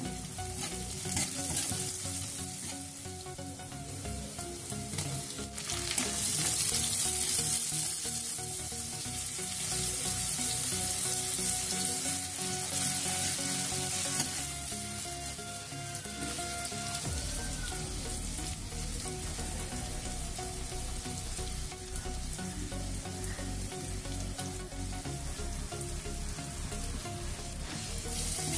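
Onions, green chillies and tomatoes sizzling in hot oil in a metal kadai while a steel spatula stirs and scrapes them. The sizzle grows louder about six seconds in.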